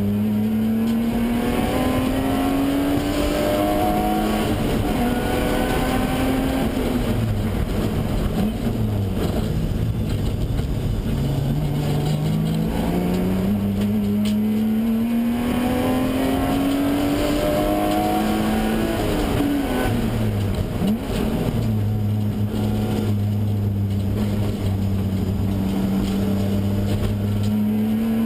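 Race car engine heard from inside the cabin, pulling hard down the straights with its note climbing steadily. The revs fall away twice as it slows for corners, about a third and two thirds of the way through. It holds steady through a long stretch near the end, then climbs again.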